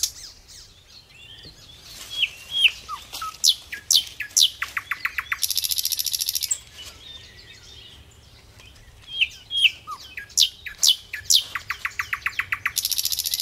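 Bird calls: a few short chirps, a run of falling whistles, a rapid trill and a harsh high buzz, the whole sequence repeating about every seven seconds.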